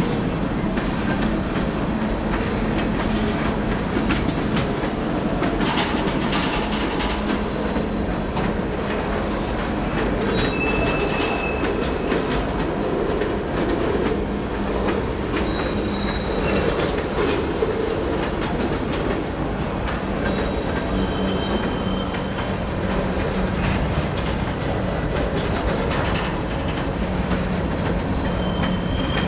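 Train cars rolling steadily past, wheels clicking over the rail joints, with several brief faint high-pitched wheel squeals.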